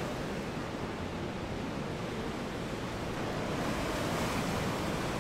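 Heavy ocean surf: a steady roar of big waves breaking, swelling a little louder and brighter near the end.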